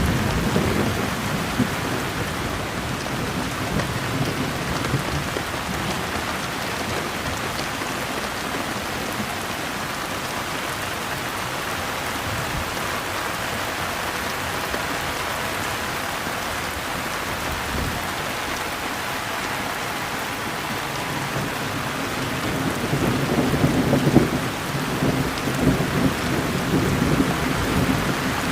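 Steady heavy rain, with low rolling thunder right at the start and again, louder and longer, in the last few seconds.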